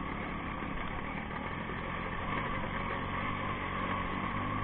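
Motorcycle engine running steadily while riding, heard from the bike carrying the camera, over a constant haze of road and wind noise.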